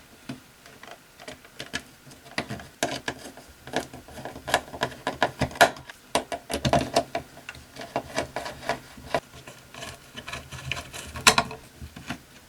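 Parts of a Zenith Trans-Oceanic radio being handled and fitted back together: an irregular run of small clicks, taps and light knocks, with one louder click about eleven seconds in.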